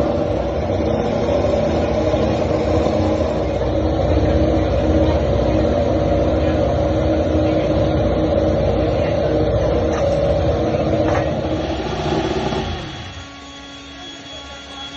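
Ducati MotoGP bike's V4 engine running loud at a steady pitch, then dropping away sharply about two seconds before the end.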